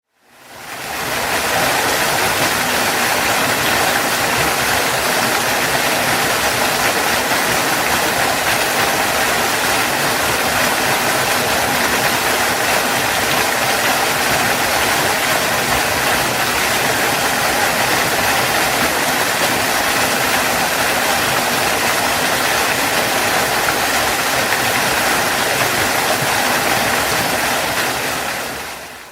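Waterfall: a steady, heavy rush of falling water. It fades in at the start and fades out near the end.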